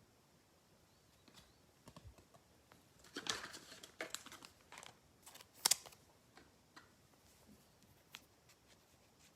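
Faint rustling and clicking of trading cards being handled and flipped through, busiest about three seconds in, with a sharp click near the six-second mark.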